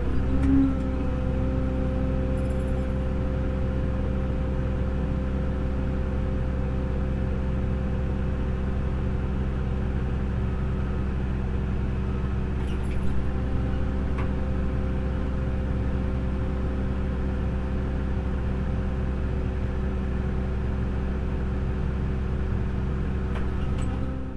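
Tractor engine running at a steady speed, a constant droning hum.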